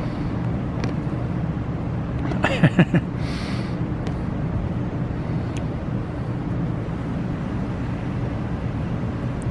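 Steady low hum of a car engine running at idle on the street, with a brief voice about two and a half seconds in.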